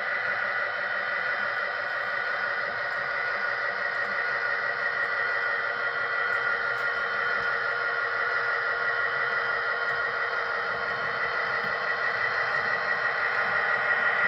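Sound-equipped HO scale model locomotive's decoder playing engine sound through its small onboard speaker as the train moves. It is a steady, pitched drone that grows louder near the end.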